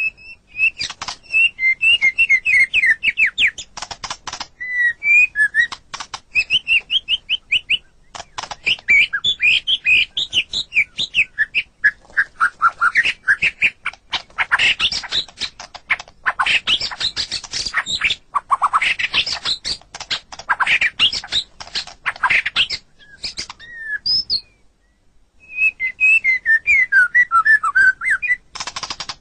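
White-rumped shama (murai batu) singing: fast runs of loud whistled notes and trills mixed with harsh clicking notes, breaking off for about a second near the end before starting again.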